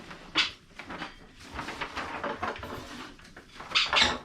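Handling noises, rustling with irregular light knocks and a sharper knock about half a second in, as a paper sailing chart is brought out of a map chest.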